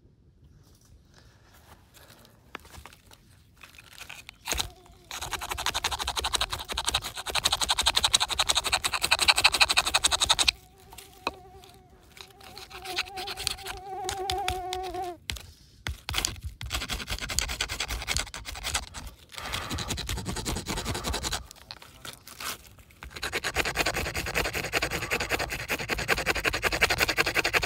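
Wooden friction fire-starting: a drill worked hard against a wooden board in long spells of fast rubbing, with a steady squeal in the middle stretch.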